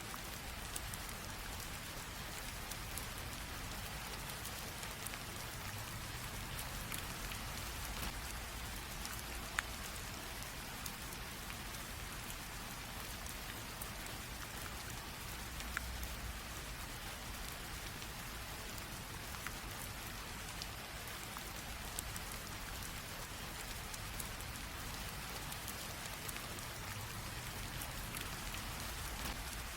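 Light rain drizzling steadily, a soft even hiss with scattered individual drops ticking throughout.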